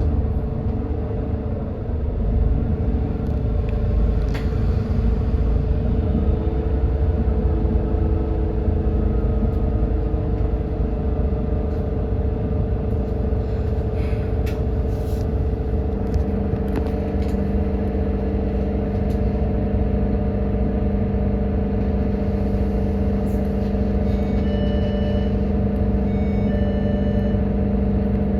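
GX12P natural-gas engine of an Edison Motors Smart 110G city bus running under way, heard from inside the cabin: a steady drone with a held mid tone, joined about halfway through by a stronger lower hum. A few short faint beeps sound near the end.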